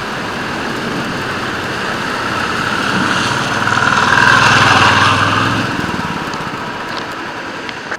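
Royal Enfield 350 single-cylinder motorcycle engine running at low speed under a loud rushing noise, swelling about four to five seconds in and easing off near the end.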